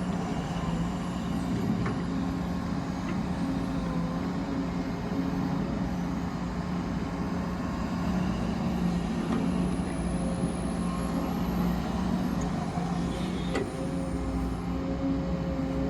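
Steady running drone of vehicle machinery at work, with a faint high whine that slowly drifts up and down in pitch.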